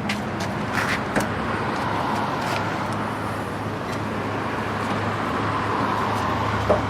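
Car driving, a steady hum of engine and road noise heard from inside the cabin, with a few light clicks.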